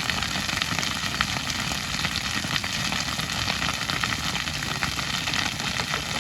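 Grass fire burning: a dense, steady crackling with many small pops.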